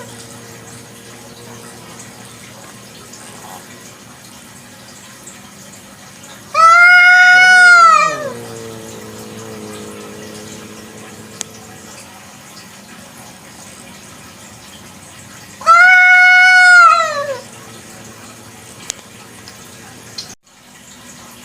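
A village cat, a free-roaming domestic cat, gives two loud drawn-out meows about nine seconds apart, each lasting about a second and a half; the first trails off in a falling pitch. A faint steady hum runs underneath.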